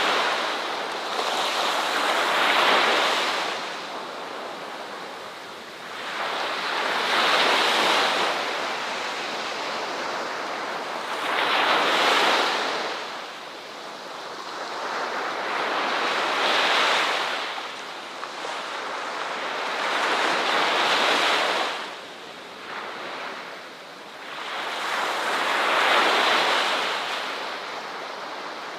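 Ocean surf: waves rushing in and washing back in slow, regular surges, one swelling and fading about every four to five seconds.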